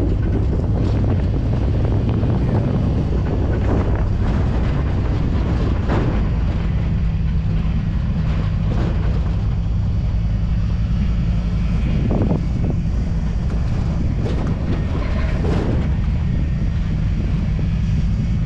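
Wind buffeting the microphone over the low rumble of a Ford F-250 pickup driving a back road, heard from the open truck bed. A few brief thumps stand out over the steady noise.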